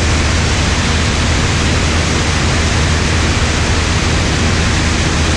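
Cessna 150 in flight: a steady, loud noise of engine and propeller drone mixed with rushing airflow, with a constant low hum underneath.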